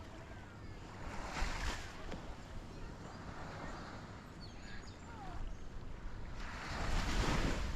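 Small waves breaking on a sandy beach, twice: one surge about a second in and a bigger one near the end, over a steady low rumble of wind on the microphone.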